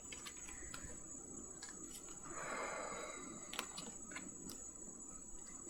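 A person sighing out a breath about two seconds in, with a few faint clicks of tarot cards being handled and laid down, over a faint steady high-pitched whine.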